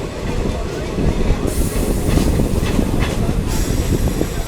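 Diesel multiple unit train running, heard on board: a steady rumble of wheels on rails with scattered clicks. A hiss joins for about two seconds in the middle.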